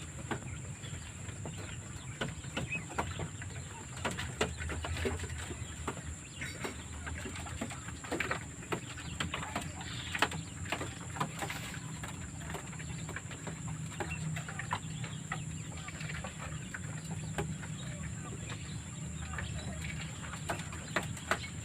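Wild quail moving about in their enclosure: scattered small clicks and taps all through, over a steady high thin tone.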